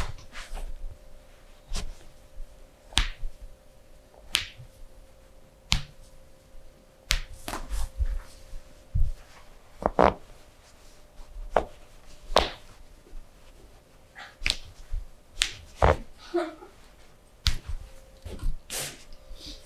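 Irregular sharp clicks and knocks, a second or so apart, over a faint steady hum.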